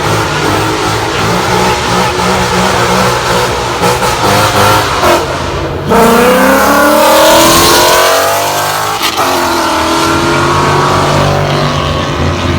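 Car engines rumbling, then about six seconds in one car accelerates hard from a pull-out, its engine pitch climbing for a couple of seconds before falling away and settling into a steady run.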